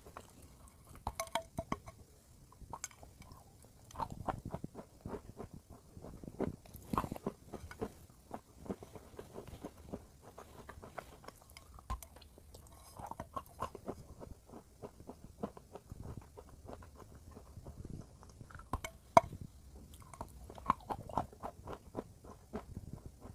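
A person biting and chewing dry white chalky lumps, with dense, irregular crunches and crackles in clusters and one especially sharp, loud crunch late on.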